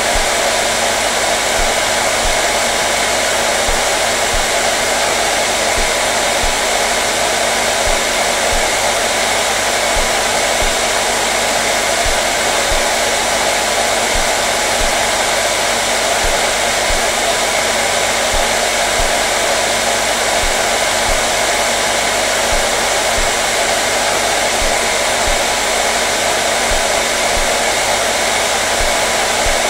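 Hair dryer running steadily, an unbroken rushing blow of air with a constant motor hum, unchanging in level.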